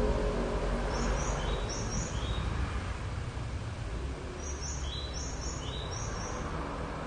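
Short high chirps of a small bird, repeated in quick pairs, over a steady background of traffic noise that fades as a passing vehicle moves away.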